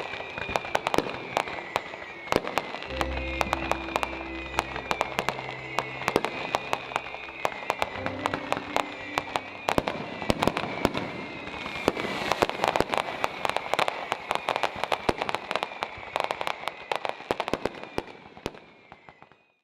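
Rapid, irregular crackling and popping, like a string of firecrackers, over music with held notes. It all fades out near the end.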